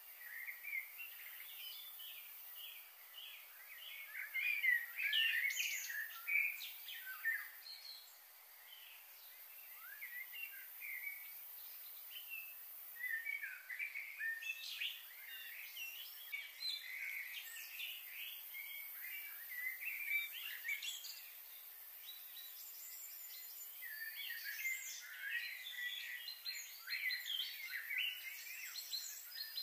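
Several small birds chirping and twittering over one another in three busy spells, the first in the opening seconds, the second in the middle and the third near the end, with steady faint outdoor hiss between them.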